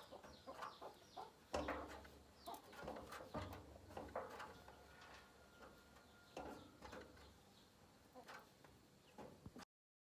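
Faint farmyard chickens clucking, with short bird-like chirps scattered through; the sound cuts off abruptly shortly before the end.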